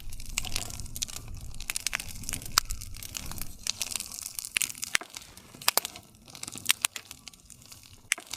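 Wood campfire crackling: irregular sharp pops and snaps from the burning wood, several a second, over a soft low rumble of flame.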